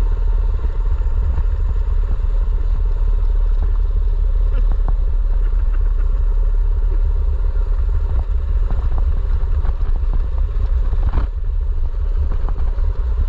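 Mini bike's small engine running steadily while riding, under a heavy low wind rumble on the microphone, with small rattles.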